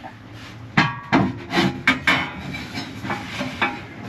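A run of irregular knocks and clunks on wood, about half a dozen, some with a brief ring: wooden cabinet parts being fitted and tapped into place.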